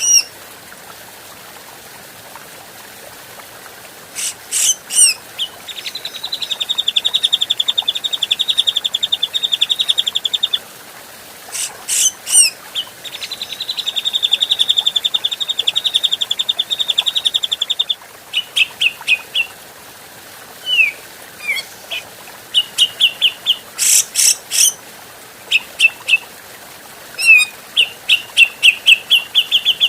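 Grey-cheeked bulbul (cucak jenggot) singing: clusters of sharp, loud whistled notes, two long rapid even trills of about five seconds each, the first starting about six seconds in and the second near thirteen seconds, then strings of short repeated notes.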